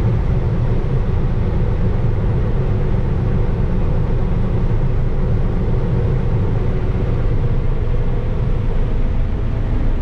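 Combine harvester running steadily while harvesting corn: a constant low engine and machine rumble.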